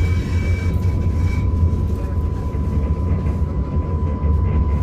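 Light-rail train running, heard from inside the car: a steady low rumble with a thin, steady whine over it.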